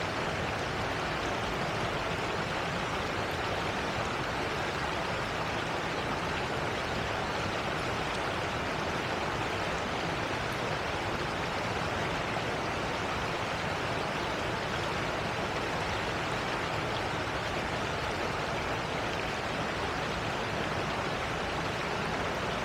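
Steady rush of falling water from a waterfall cascading into a pool, an even noise with no breaks.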